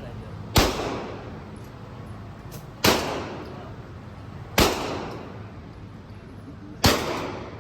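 Four single gunshots at an irregular slow pace, about two seconds apart, each with a sharp crack and a short echoing tail.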